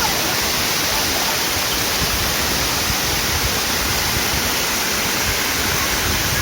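A tall waterfall pouring, heard close by as a loud, steady rush of water.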